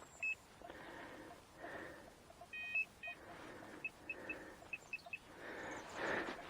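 Metal detector giving a series of short, high-pitched beeps as its coil is swept back and forth over a target that reads near the ferrous range. Faint lower pips and soft rustling are heard between the beeps.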